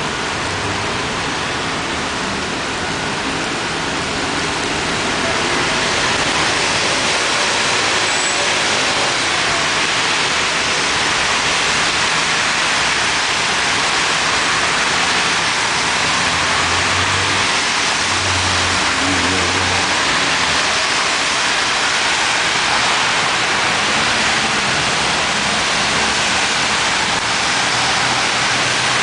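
Heavy rain pouring down steadily, growing a little louder about five seconds in, with cars passing on the wet road.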